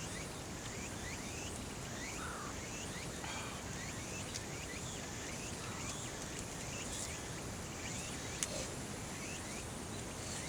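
Night-time insects keeping up a steady high-pitched hiss, with short falling chirps repeating every half second to a second and one sharp click near the end.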